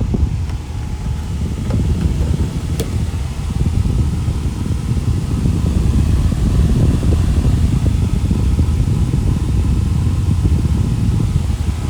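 Wall-mounted high-velocity fan running, a low rush of air that grows louder over the first few seconds as it comes up to speed, then holds steady; its dry front bearing has been freshly oiled with 3-in-1 oil. A few faint clicks near the start.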